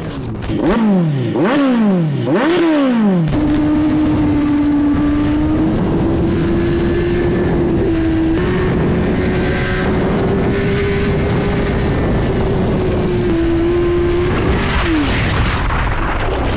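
Racing motorcycle engine accelerating hard through three quick upshifts, each a rising pitch that drops at the shift, then holding a steady high-revving whine for about eleven seconds before easing off near the end.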